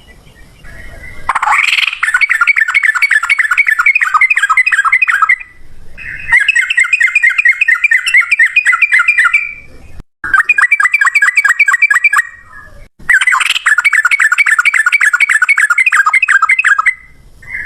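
Yellow-vented bulbul (trucukan) singing its fast rolling 'ropel' song: four long runs of rapidly repeated notes, each a few seconds long, separated by short pauses.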